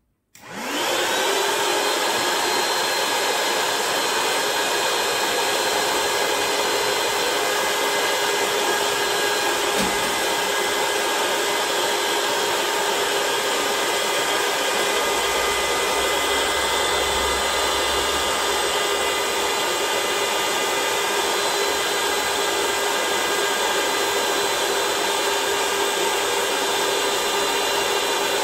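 Battery-powered portable mini air pump switched on, spinning up within a fraction of a second and then running at a steady high whine.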